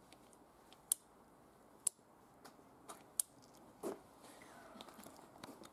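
A handful of short, sharp clicks and ticks, about six spread irregularly over a few seconds with quiet between, plus one softer, duller knock near the four-second mark.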